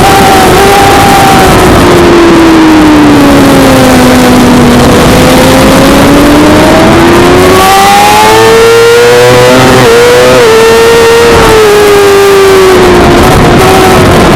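Suzuki GSX-R600 inline-four engine under racing load on track, over steady rushing noise. Its note sinks slowly for about five seconds, climbs back up, changes sharply at a gear change about ten seconds in, and falls away again near the end.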